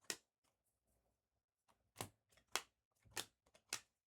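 Basketball trading cards being flipped through one at a time: a short, faint papery swish near the start, then four more in a quick run about half a second apart.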